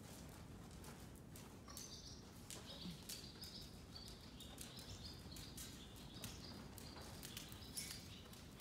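Faint, repeated chirping of small birds, with scattered soft clicks.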